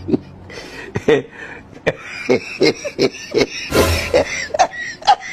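A voice making a string of short, separate vocal sounds with bending pitch, about one or two a second, mixed with sharp clicks.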